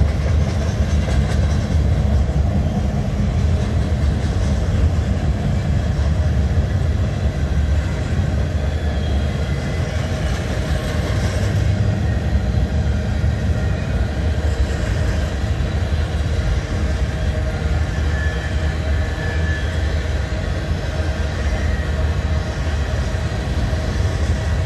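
Train rolling past on the rails, a steady rumble of wheels and cars with a faint whine over it. The noise is typical of wheels running on rail that the Loram rail grinder has just ground.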